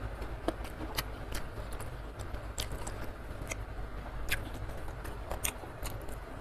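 Close-miked chewing of soft food, young jengkol and rice eaten by hand: scattered soft wet mouth clicks and smacks with no crunch.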